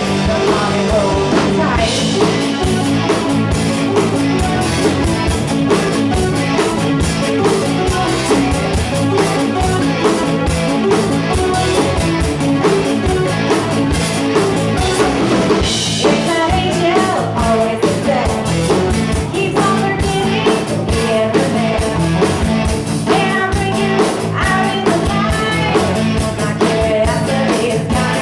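Rock band playing live: drum kit, guitars and a singing voice.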